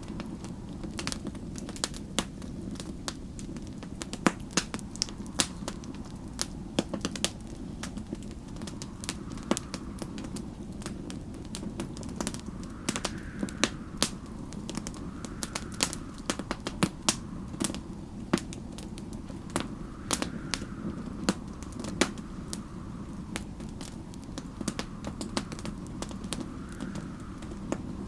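Wood fire crackling, with frequent sharp pops over a steady low rumble. Behind it, snowstorm wind rises and falls in gusts every couple of seconds.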